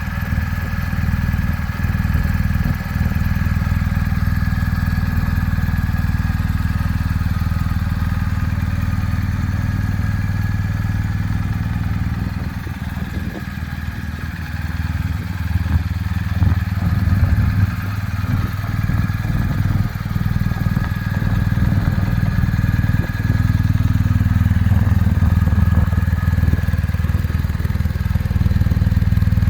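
Motorcycle engine running steadily, dropping off slightly about halfway through and then picking up again.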